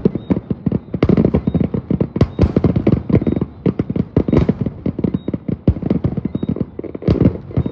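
Fireworks going off in a rapid barrage of bangs and crackles, several blasts a second with only brief lulls.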